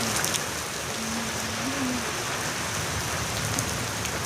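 Steady rain falling, a dense hiss of drops with scattered sharper drip ticks.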